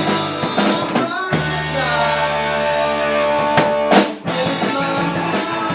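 A live rock band playing with drum kit. About a second in, the band holds one chord for a couple of seconds, broken by a loud hit about four seconds in, after which the full band plays on.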